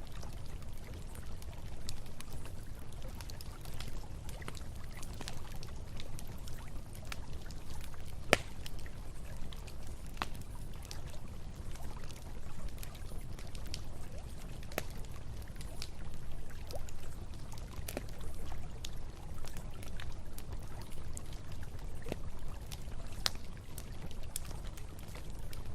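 Campfire crackling with scattered sharp pops, one louder pop about eight seconds in, over the steady low rush of a flowing river.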